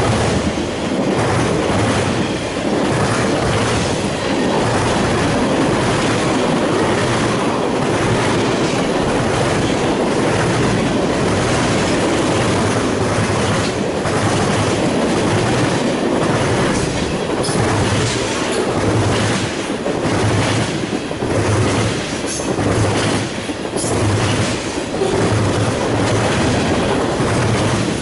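Freight cars of a mixed freight train rolling past at close range: a steady rumble of wheels on rail with a rhythmic clickety-clack as the trucks cross rail joints, and a few short high-pitched squeals in the second half.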